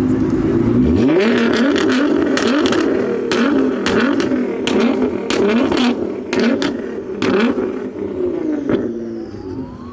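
Car engine revved hard over and over, its pitch sweeping up and down about twice a second, with sharp exhaust pops and crackles as it is revved to shoot flames from the exhaust; the revving dies down near the end.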